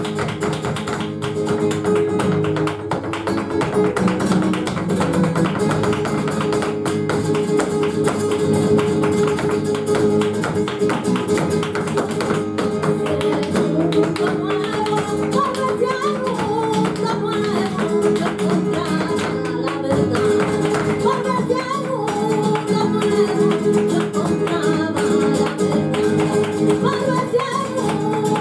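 Flamenco petenera played live: Spanish guitar with dense, sharp percussive taps throughout. A wavering singing voice comes in around the middle.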